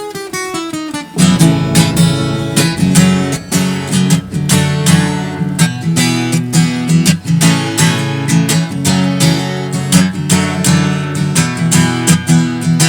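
Acoustic guitar intro: a short run of falling notes in the first second, then chords strummed in a steady rhythm.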